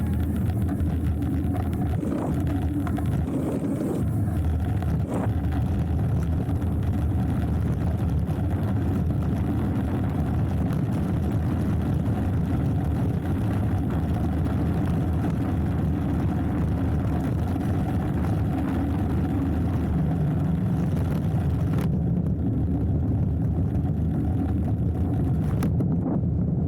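Steady wind rush and rumble on the action camera's microphone as a hardtail mountain bike rolls down a trail, with a few brief knocks from the bike over rough ground.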